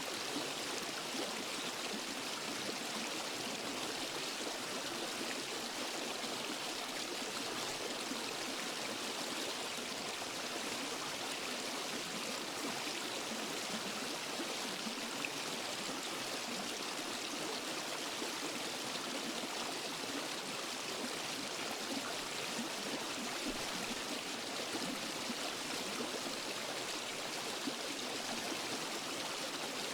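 Waterfall and forest stream: water falling and rushing over rocks in a steady, even rush with no breaks.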